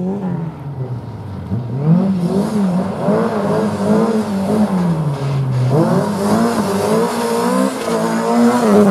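Opel saloon race car's engine revving hard on a gravel course, its pitch climbing and dropping again and again through gear changes and lifts. It is fainter for the first second or so, then rises and runs loud, sagging low for a moment about five seconds in before climbing again.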